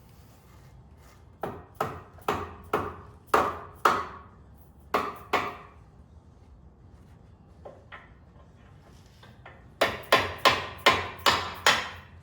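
Brass-head mallet hammering a pivot pin into its bushing on a skid steer's Bobtach. First a run of six blows, then two more, a couple of light taps, and near the end a quicker run of about seven, each blow ringing briefly.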